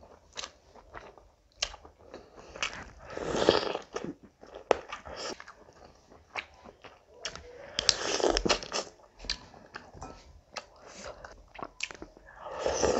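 Close-miked eating sounds: wet chewing, lip smacks and small clicks of a mouth eating rice and chicken curry by hand. Three louder, longer mouthfuls stand out, the last near the end.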